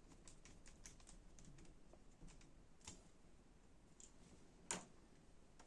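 Faint, light clicks and taps of small laptop screws being handled and set in place: a quick run of clicks in the first second or so, then a few single taps, the sharpest near the end.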